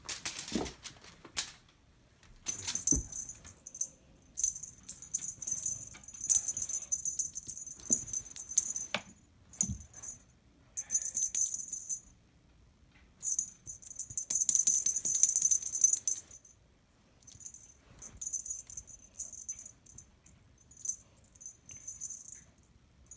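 Cat teaser wand toy being shaken and flicked, giving bursts of high crinkly jingling that last one to three seconds, with short quiet gaps between them. A few soft knocks come in the first half.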